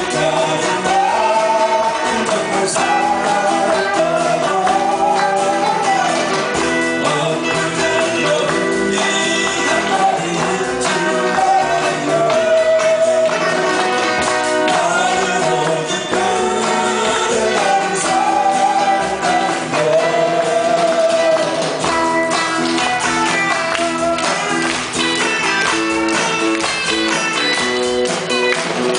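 Live amateur band playing a 1970s–80s Korean pop song: guitars and tambourine under a held melody line.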